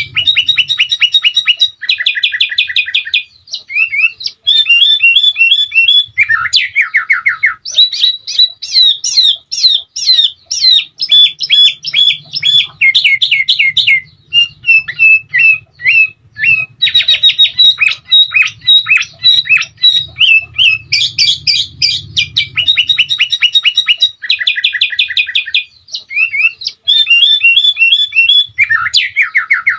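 Sooty-headed bulbul (kutilang) singing loudly and almost without pause: phrase after phrase of rapid, repeated chirping notes and rolling trills, with short breaks between phrases.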